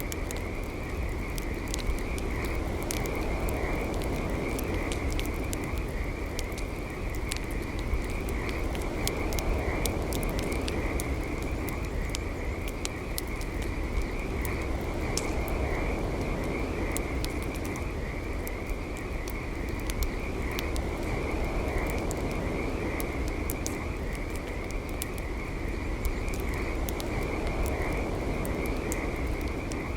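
Campfire crackling with frequent sharp pops over a steady low burning noise, while a chorus of frogs trills continuously behind it.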